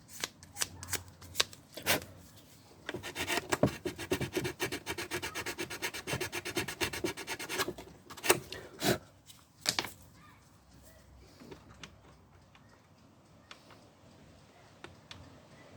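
Hand sanding a broken rear-light part: a few separate strokes, then about five seconds of quick back-and-forth rubbing, and a few last strokes, stopping about ten seconds in.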